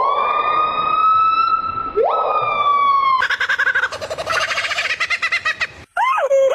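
A siren-like wail that sweeps quickly upward and holds, twice in a row. It is followed by a fast pulsing tone, and near the end by a warbling tone that wavers up and down.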